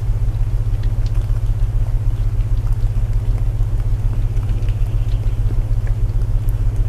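Layered sleep soundscape: steady, pulsing low binaural tones under an even hiss of rain, with scattered faint crackles like burning wood.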